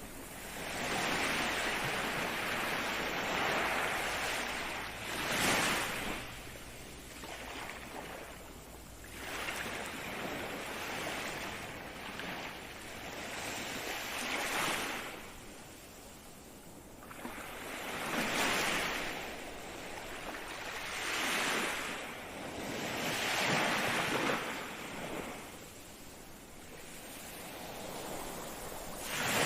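Ocean waves breaking in repeated surges, one every three to five seconds, each swelling up and then fading away.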